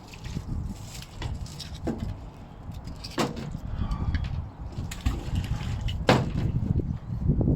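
Scrap metal finds knocking and clanking as they are pulled off a magnet-fishing magnet and handled, with a few sharp knocks, the loudest about six seconds in, over a steady low rumble.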